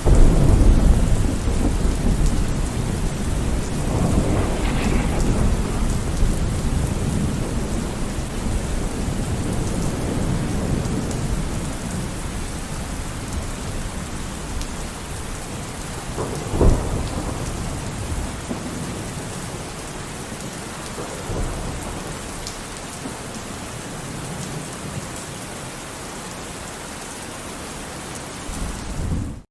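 Steady rain with rolling thunder. A heavy rumble comes at the start and another a few seconds later, and a sharper thunderclap comes about halfway through. The storm grows quieter toward the end and cuts off suddenly.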